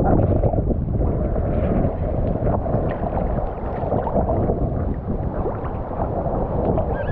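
Wind buffeting the microphone: a steady, gusting rumble that rises and falls without a clear pitch.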